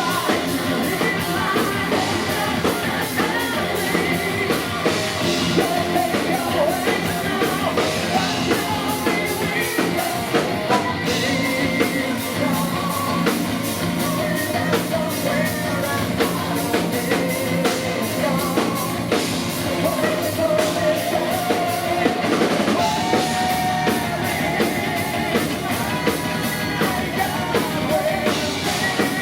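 Live heavy metal band playing: fast, steady drums under held instrument notes, with a singer's voice over them.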